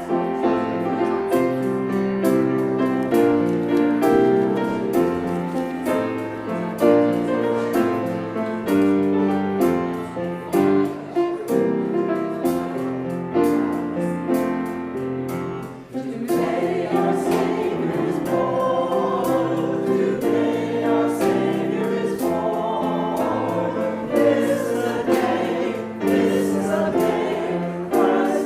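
Choir singing with instrumental accompaniment; the music dips briefly about halfway through, then goes on with wavering voices.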